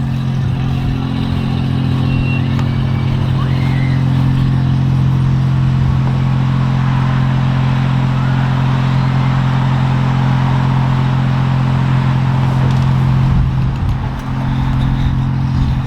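An engine running steadily with a constant low hum, easing off a little near the end.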